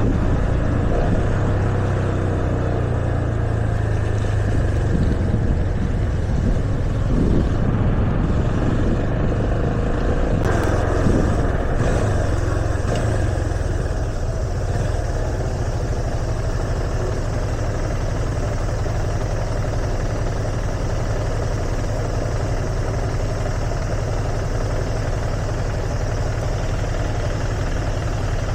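Yamaha FZ25's 249 cc single-cylinder engine running under way, its note rising and falling for the first half, then settling steadier and slightly quieter about halfway through.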